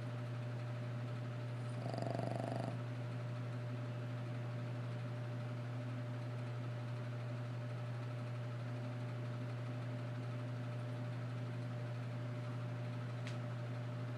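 A sleeping dog snoring: one rasping snore about two seconds in, lasting under a second, then a long pause. A steady low hum runs underneath throughout, with a faint click near the end.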